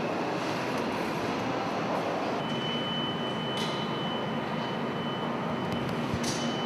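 Steady mechanical rumble and hiss, like machinery running. A faint high whine comes in about two and a half seconds in, and there are two brief hissing strokes.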